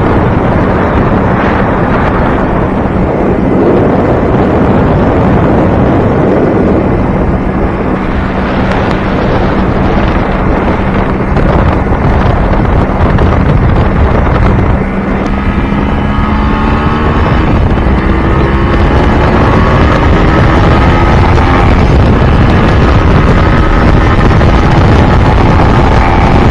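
Yamaha RX-King 135 two-stroke single-cylinder engine running under way, with heavy wind noise on the microphone. For the first half it holds a steady pitch. Just past halfway it drops off briefly, then its pitch climbs again and again as the bike accelerates.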